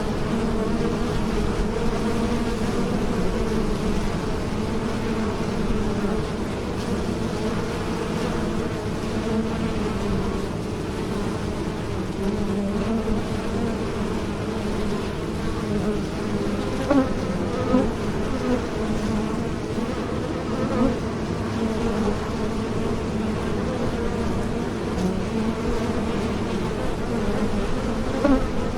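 Honeybees buzzing in a swarm: a steady, dense drone of many wingbeats, with individual bees buzzing louder as they pass close now and then near the end.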